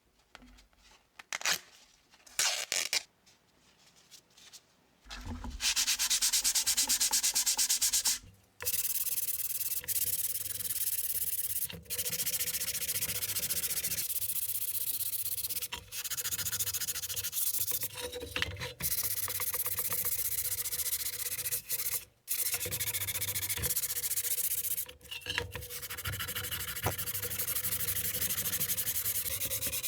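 Sanding the small steel Snap-on tool box ahead of refinishing. A few short knocks come first, then about five seconds in the sanding starts and runs in long continuous stretches with brief breaks.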